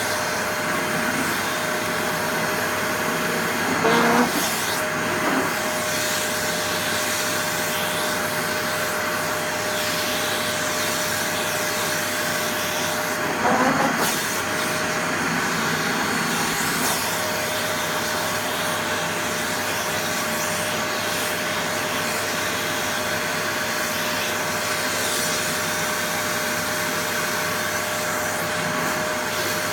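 Vacuum cleaner running steadily with a constant whine, twice briefly punctuated by a short louder sound, about four seconds in and again near the middle.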